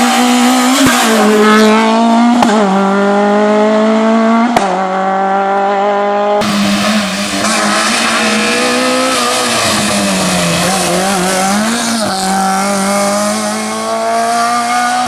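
Small Fiat rally car engines at high revs: the pitch climbs steadily as the car pulls hard, then after a cut another car's revs rise and fall through a corner before climbing again.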